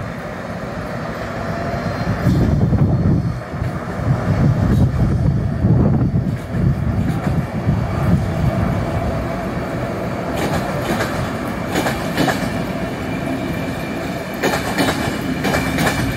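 Electric-hauled passenger train pulling out, its coaches rolling past with a low rumble and wheels clacking over the rail joints. The clacks turn sharper and more frequent in the last few seconds.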